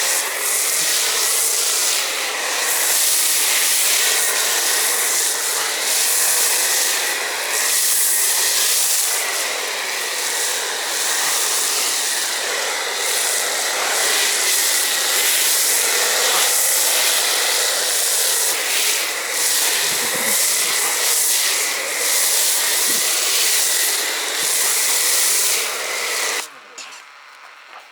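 Pressure washer spraying snow foam through a foam cannon: a loud, steady hiss of spray that cuts off suddenly near the end.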